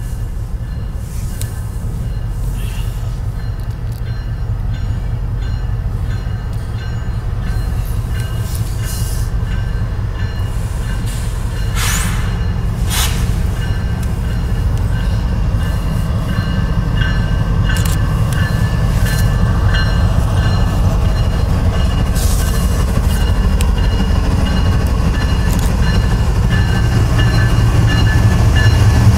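Union Pacific diesel locomotives leading a double-stack container freight train, their engines rumbling steadily and growing louder as the train approaches and passes close by.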